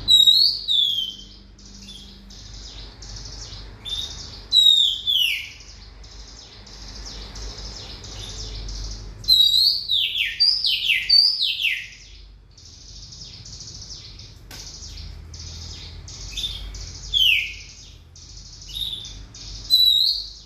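Oriental magpie-robin (kacer) singing: loud whistles that slide downward in pitch, in clusters of two to four, between runs of fast, quieter chattering notes.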